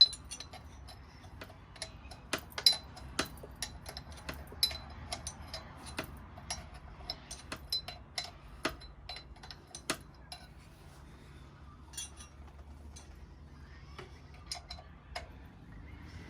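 Hand tool working a bolt up tight on metal: irregular quick metallic clicks and clinks, several a second, with louder knocks now and then.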